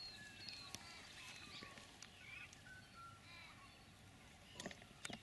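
Faint birdsong: scattered short chirps and whistles over a quiet open-air background, with a few sharp clicks near the end.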